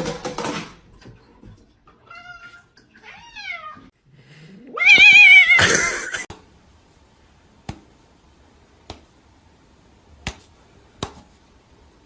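Cat meowing: a few short calls falling in pitch two to three seconds in, then a loud wavering yowl about five seconds in. A few sharp clicks follow.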